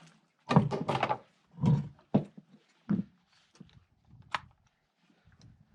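Irregular thumps, knocks and rustles of safety gear and equipment being handled, with a sharp click about four seconds in.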